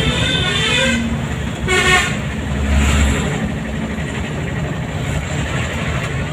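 Town road traffic with vehicle engines running, and a brief vehicle horn toot about two seconds in.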